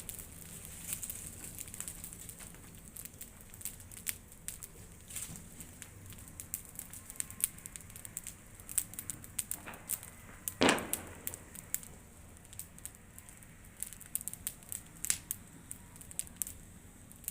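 Large wood bonfire crackling, with irregular sharp pops and one louder crack about two-thirds of the way through.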